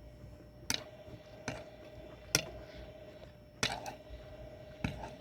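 Eating noises close to the microphone: five sharp clicks spaced about a second apart over a faint steady hum.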